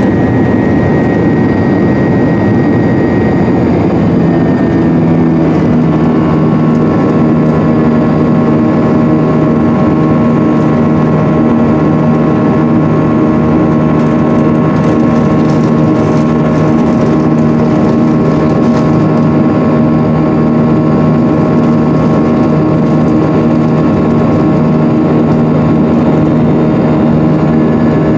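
Jet engines of an Airbus A320-232 (IAE V2500 turbofans) heard from inside the cabin, running at steady power. A loud, steady rumble with several steady hum tones, which settle into place about five seconds in.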